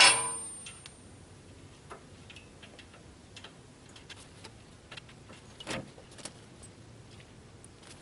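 A wrench clangs down onto the backhoe's steel frame right at the start, ringing for about half a second, followed by scattered light metallic clicks and taps of tools being handled.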